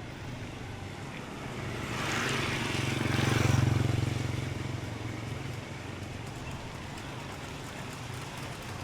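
A motor vehicle passing close by: its engine hum and road noise swell over a couple of seconds, peak about three and a half seconds in, and fade away, over a steady hum of street traffic.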